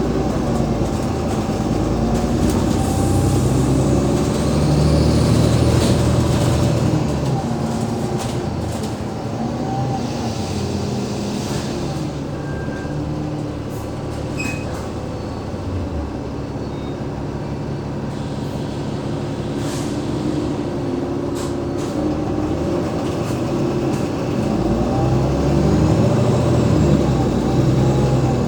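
Diesel drone of an Alexander Dennis Enviro500 MMC double-decker bus's Cummins ISL 8.9-litre engine and ZF Ecolife automatic gearbox heard from on board while driving. The note climbs a few seconds in, eases off through the middle and builds again near the end. A faint high whine rises and falls while the engine is pulling a few seconds in.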